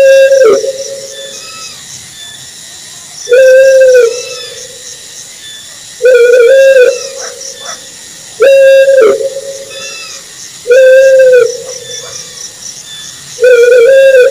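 Owl hooting: six loud, single hoots, each under a second, repeated about every two and a half seconds, over a faint high chirping background.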